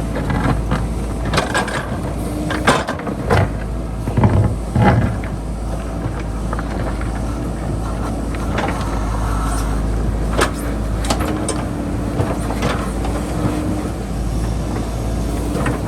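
JCB backhoe loader's diesel engine running steadily at work, with repeated sharp knocks and scrapes of the bucket digging into rock and soil, loudest in a cluster in the first five seconds.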